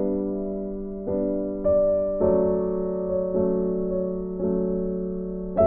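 Slow background piano music, with a new note or chord about every second.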